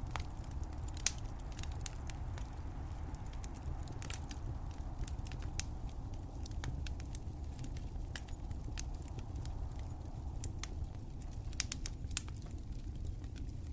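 Wood fire crackling, with irregular sharp pops and snaps over a steady low rumble. The loudest pops come about a second in and again near the end.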